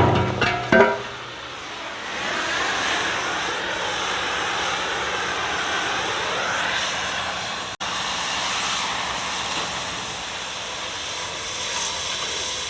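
Air carbon-arc gouging on steel: a steady, loud hissing roar of the arc and compressed-air jet blowing out molten metal, after a couple of metallic knocks at the start.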